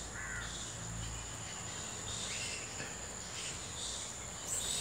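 A bird giving about six short calls, roughly a second apart, over a steady high-pitched insect drone.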